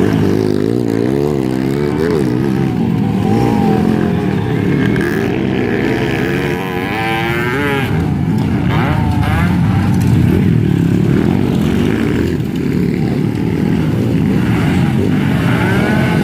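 Motocross dirt bike engines revving up and down, several overlapping at different pitches.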